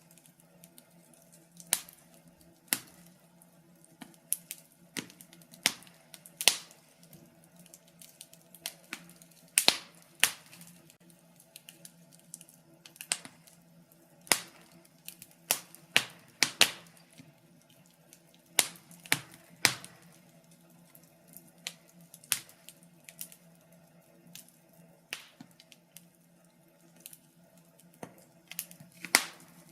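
Wood burning in a fireplace, crackling with irregular sharp pops and snaps, about one a second and sometimes in quick clusters, over a faint steady low hum.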